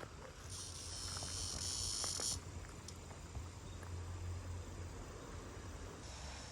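Cicada calling: a steady, high-pitched buzz lasting nearly two seconds that cuts off abruptly, with another faint buzz starting near the end.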